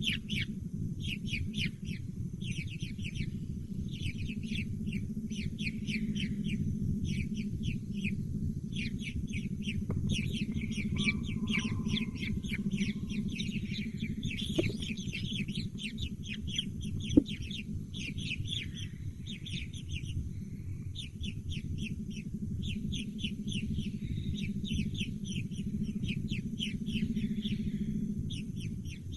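Young birds chirping rapidly and continuously, dense runs of short, high, downward-sliding notes, over a steady low rumble. A single sharp knock about seventeen seconds in.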